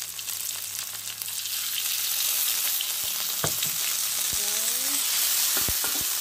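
Eggplant, chili and tomato sizzling in hot oil in a wok. The sizzle grows louder about two seconds in, as a little water goes into the pan. A metal spatula clinks and scrapes against the wok several times in the second half.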